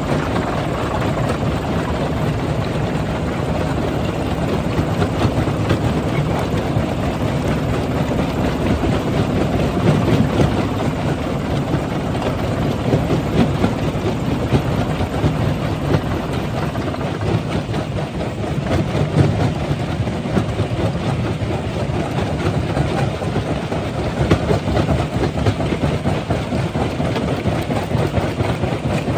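Rock-crushing machinery running steadily: a continuous heavy mechanical drone with dense, irregular rattling and clatter.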